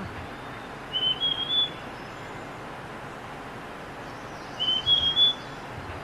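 A bird calling twice, each time a short phrase of a few high notes lasting under a second, the two phrases about three and a half seconds apart, over a steady hiss.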